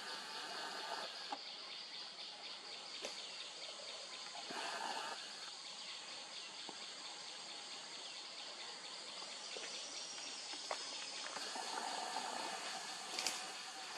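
Outdoor ambience of a steady, high insect drone, with a few short stretches of lower-pitched noise near the start, about five seconds in, and toward the end.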